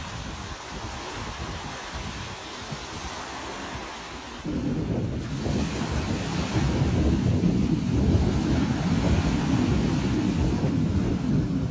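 Ocean surf washing on a beach, with wind buffeting the microphone. About four and a half seconds in, the sound suddenly turns louder and deeper and stays that way.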